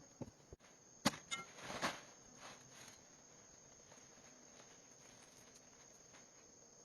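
A sharp knock about a second in, with a brief ring, followed by a short clatter and a few light taps and crunches, as of something being handled or set down; after that only a faint steady hiss.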